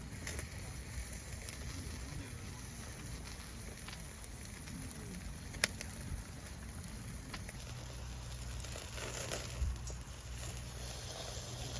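Wood campfire crackling over a steady low background, with one sharp pop about halfway through and a few fainter snaps later.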